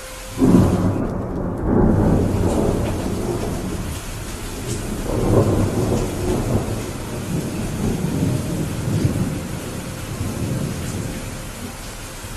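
Steady rain with a long roll of thunder. The thunder breaks about half a second in and rumbles on, swelling again around five seconds, then dies away near the end.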